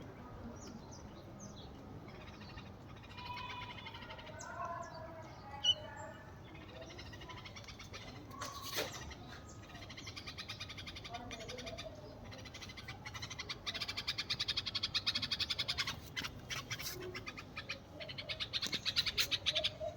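Small birds calling, first scattered short chirps, then a fast, rapid chattering that grows louder in the second half.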